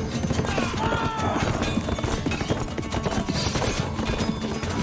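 Dramatic film-score music over the din of a mounted battle: hoofbeats, clashes and shouting.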